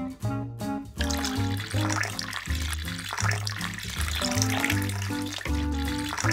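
Background music of short, bouncy notes. From about a second in, running water plays under it.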